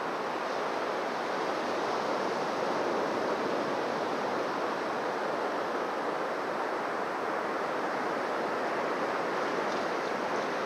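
Surf washing on a beach: a steady, even rush of waves with no distinct breaks.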